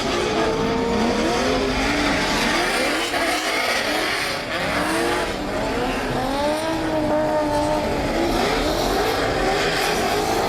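Drift car engine revving up and down again and again over steady tyre noise from sliding tyres.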